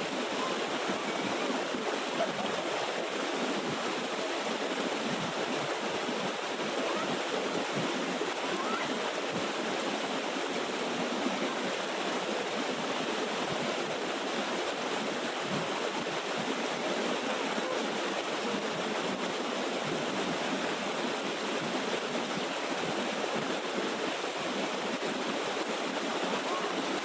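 A small waterfall's water rushing steadily.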